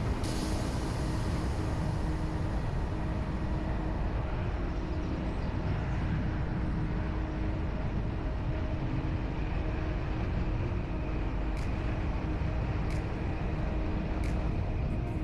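A motor vehicle running steadily, with a low rumble of engine and road noise and a faint steady hum. A few faint ticks come near the end.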